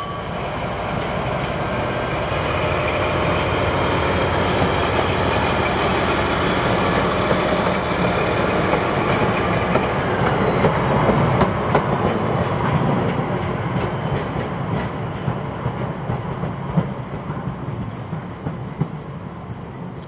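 A train running past on the rails: a rumble that builds to its loudest about halfway, then a quick run of wheels clicking over rail joints, dying away near the end.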